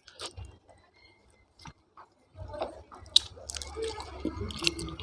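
Close-up mouth sounds of a person chewing and sucking on cooked drumstick (moringa) pods, with wet clicks and smacks. A few clicks at the start, a quiet stretch, then steady chewing from about halfway on.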